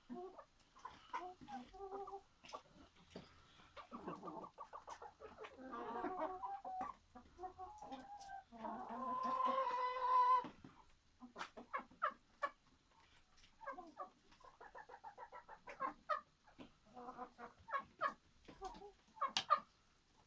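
Chickens (hens and roosters) clucking in repeated short calls, with one longer, louder call about halfway through.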